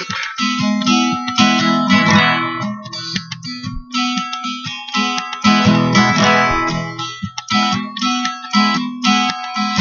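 Acoustic guitar strummed in a run of chords, with short breaks between them.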